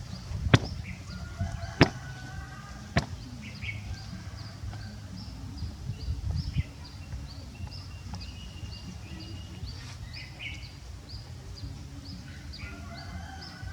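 Small birds chirping: one short high chirp repeated about twice a second, with other scattered calls. Three sharp clicks come in the first few seconds.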